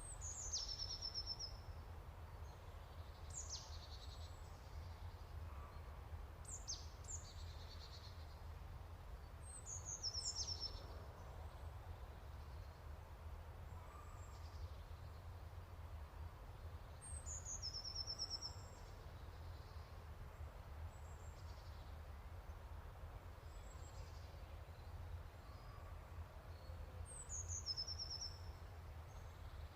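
A bird singing faintly: a short song of high downward-sweeping notes ending in a quick trill, repeated every few seconds, over a steady low hum.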